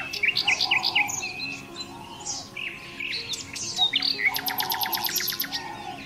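Several birds chirping and calling in quick, overlapping whistled notes. Near the end there is a fast, dry run of about ten clicks a second lasting a little over a second.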